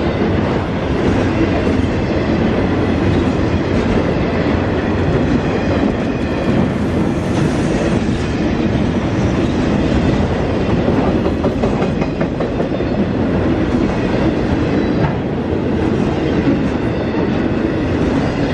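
Train cars rolling past, a steady run of wheel-on-rail noise.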